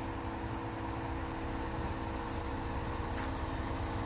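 Jeep Comanche pickup's engine running steadily at idle, a low even rumble with no revving.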